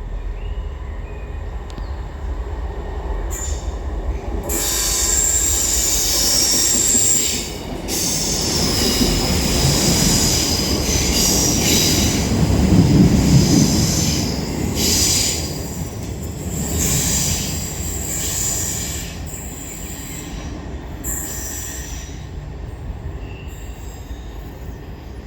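Two coupled East Midlands Railway Class 158 diesel multiple units passing through a station without stopping, their wheels squealing on the rails. The rumble builds, is loudest about halfway through, then fades as the train draws away.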